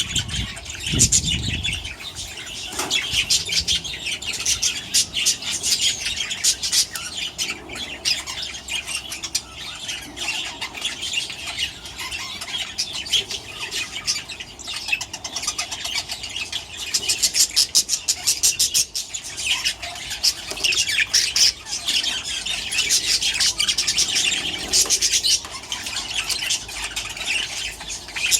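A flock of budgerigars, adults and newly fledged chicks, chattering, chirping and squawking continuously, with wings flapping. A few low thumps sound in the first two seconds.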